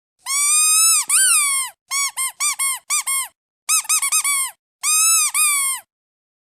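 Rubber duck squeeze toy squeaking in bursts: two long squeaks, then a run of short quick squeaks, a fast flurry, and two long squeaks again. Each squeak is a shrill, steady pitch that dips at its end.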